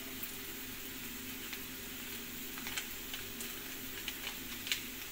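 Egg and vegetable stir-fry sizzling quietly and steadily in a hot, oiled kadai, with a few light ticks scattered through.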